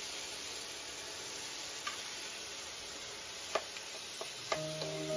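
Tomato-onion masala sizzling in a non-stick frying pan, with a few sharp knocks of a wooden spatula against the pan as boiled potatoes are broken up and stirred in. Background music comes in near the end.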